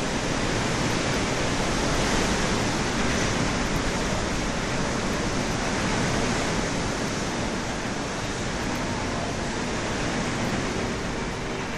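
Storm wind and heavy rain making a steady rushing noise, rising and falling a little in strength.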